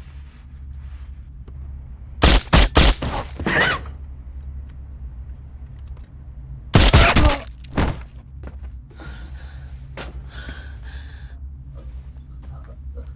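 Film action sound effects: a rapid cluster of loud sharp impacts and crashes with something shattering about two seconds in, then another loud crash about seven seconds in, over a steady low rumble.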